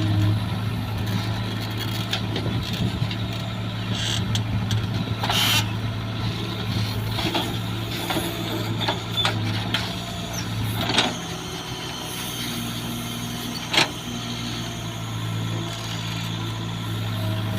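Heavy diesel engine of farm machinery running steadily, with a few sharp knocks along the way.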